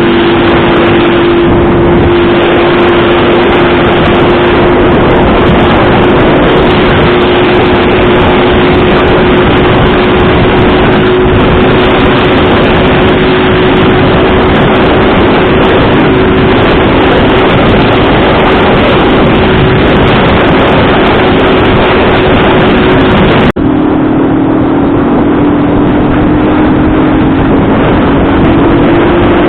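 Motorcycle engine running steadily at riding speed, loud, under heavy wind rush on the microphone. Near the end the sound briefly cuts out, then the engine note climbs slowly as it speeds up.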